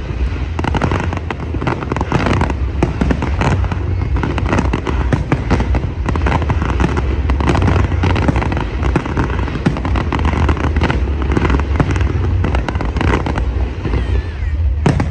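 Large aerial fireworks display: a dense, continuous barrage of rapid bangs and crackles over a steady low rumble.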